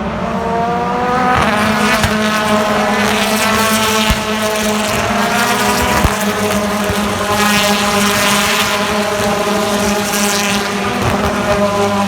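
A BTCC touring car's turbocharged engine at racing speed. Revs climb, a gear change comes about a second and a half in, and then the engine pulls at high revs with its pitch slowly rising. Two sharp knocks come about two seconds apart midway.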